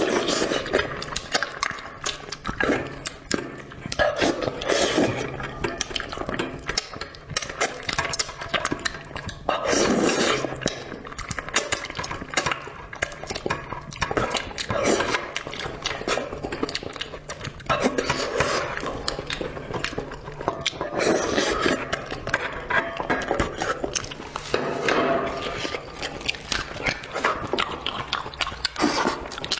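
Close-miked eating: wet chewing, sucking and slurping of spicy braised food in bursts every few seconds, with many small clicks of utensils against dishes.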